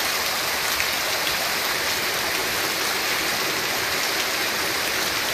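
Rain falling steadily in a dense, even hiss of drops.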